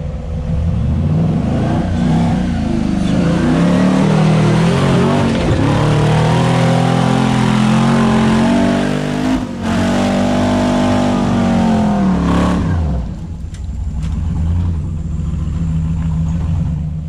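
Off-road vehicle's engine revving hard, its pitch climbing and falling repeatedly, with a brief break about nine and a half seconds in. After about twelve seconds it drops back to a lower, steady idle.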